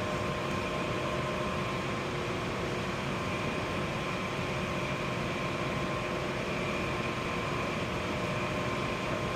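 Daikin gas furnace running: a steady rushing noise of burners and fan, with faint steady tones over it and no change throughout.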